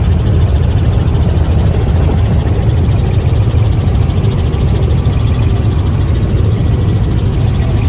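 Helicopter engine and rotor running steadily and loudly.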